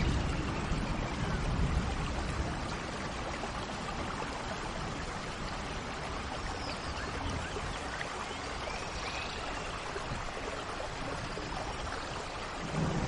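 Steady rain hiss with a few faint bird chirps around the middle. A low rumble of thunder fades over the first couple of seconds and starts to build again at the very end.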